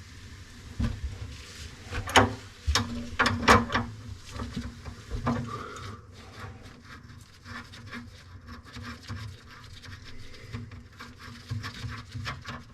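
Tools and plumbing parts being handled under a kitchen sink: a run of sharp knocks and clicks, loudest about two to four seconds in, then lighter clicking and rubbing.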